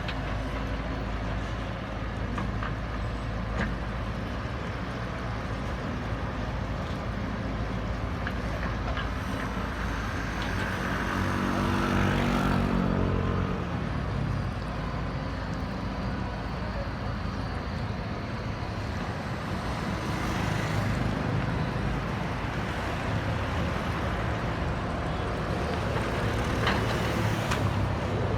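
Diesel engine of a JCB backhoe loader running steadily as it works, revving up and back down about halfway through. A few sharp knocks are heard, one early on and a couple near the end.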